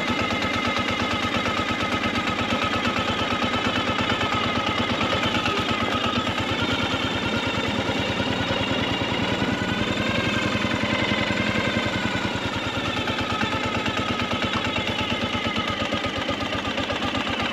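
Ural sidecar motorcycle's flat-twin engine running under way, its exhaust a rapid, even stream of pulses.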